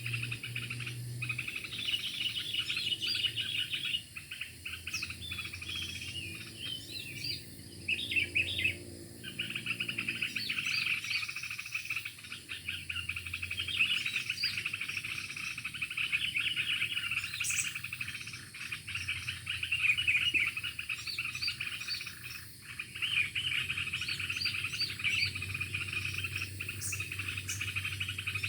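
Small songbird chirping and twittering in fast, continuous chatter, with a short lull about nine seconds in.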